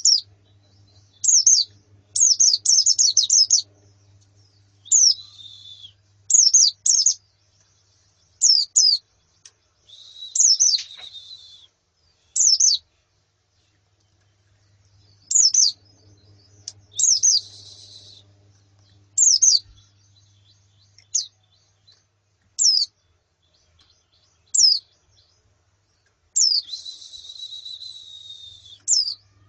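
White-eyes (pleci), females and a flock, calling: short, high chirps that sweep downward, singly or in quick runs every second or two, with a few longer buzzy trills.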